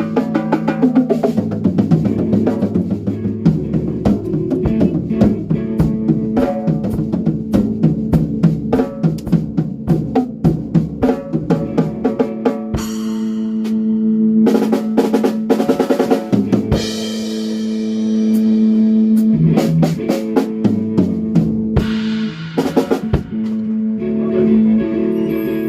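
Drum kit played with a new Tama snare drum, quick snare and bass drum hits over held pitched notes from another instrument; the hits thin out twice in the middle while the held notes carry on.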